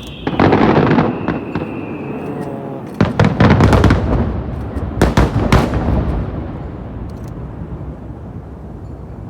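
Finale starmine fireworks: rapid aerial shell bursts come in three clusters, about half a second, three seconds and five seconds in, with a whistle falling in pitch during the first two seconds. The booms then echo and fade away.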